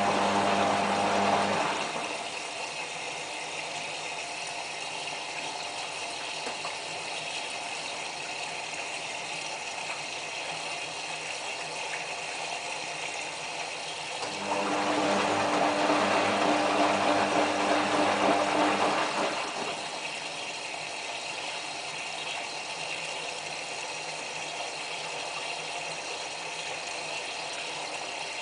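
Whirlpool AWM4066 front-loading washing machine in its final rinse, water rushing in steadily as it fills. Its motor hums and the drum turns in two louder spells, once at the start and again for about five seconds about halfway through; the machine keeps stopping and starting because the bulky blanket soaks up so much water.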